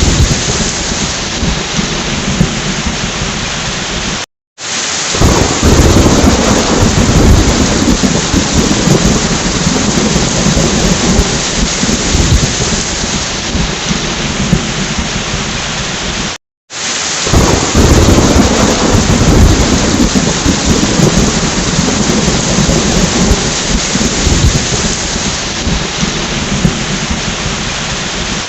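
Steady heavy rain with rolling thunder rumbling underneath, the rumble swelling just after each of two brief dead-silent dropouts where the recording loops.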